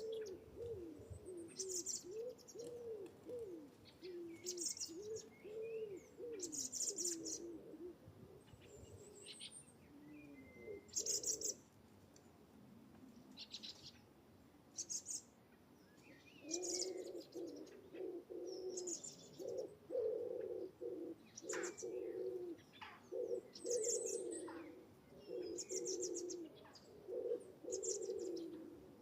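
A young blackbird chirping in short, high, repeated bursts, about one every second or two, the begging calls of a fledgling being fed. Lower wavering, cooing calls run underneath through the first third and again in the second half.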